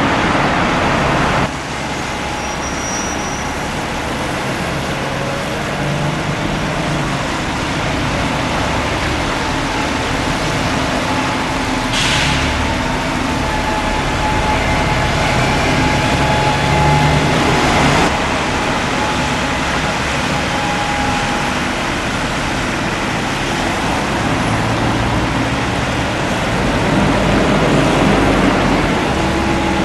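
Diesel bus engines running amid road traffic, with a short hiss of air about twelve seconds in and a fainter one near eighteen seconds.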